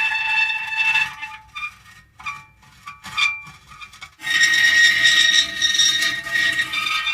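Metal creaking: drawn-out squealing tones that break off about a second in into scattered short creaks and ticks, then return as a steady squeal about four seconds in.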